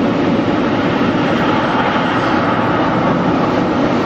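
Automatic car wash machinery running close over the car, heard from inside the cabin as a loud, steady rushing noise.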